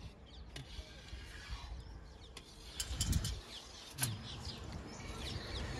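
Small birds chirping outdoors in quick short calls, with a few sharp clicks and a low thump partway through.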